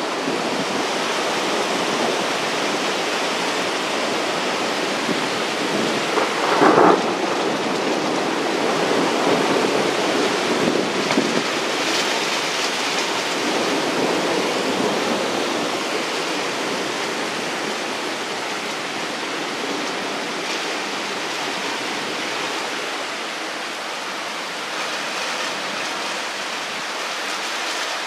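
Heavy rain pouring steadily, with thunder rumbling. There is a brief loud burst about seven seconds in, and the storm swells louder for a few seconds in the middle.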